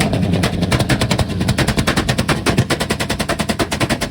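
Car exhaust letting out a rapid, steady string of sharp pops, about a dozen a second, like machine-gun fire.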